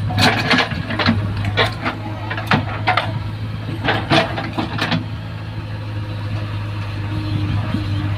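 Diesel engine of a working backhoe loader or tractor running steadily, with a series of short knocks over the first five seconds.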